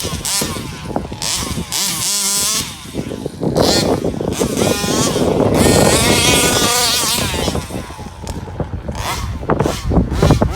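34cc Rovan two-stroke engine in an RC Baja buggy revving up and down over and over as it is driven hard, the pitch climbing and falling with each burst of throttle.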